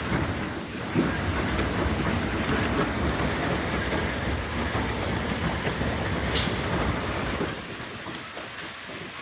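Heavy hurricane rain pouring down, a steady rushing noise with a low rumble that eases a little about seven and a half seconds in.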